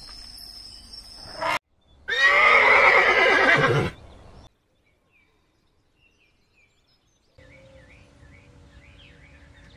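A horse whinnying loudly for nearly two seconds, starting about two seconds in. After a gap, faint repeated chirps over a steady low hum come in near the end.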